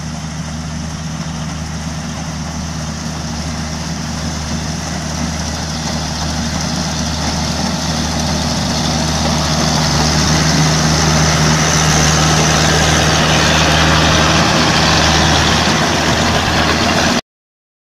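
Ganyi GY4LZ-1.0 small combine harvester running steadily with a low engine hum and mechanical clatter, growing louder over the first ten seconds. The sound cuts off suddenly near the end.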